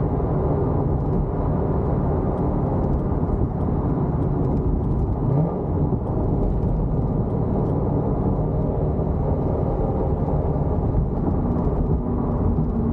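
Cammed C5 Corvette Z06's LS6 V8 exhaust, through headers and Borla ATAK mufflers, running steadily with a lopey rumble. About five seconds in there is a brief rise in pitch, then a short dip.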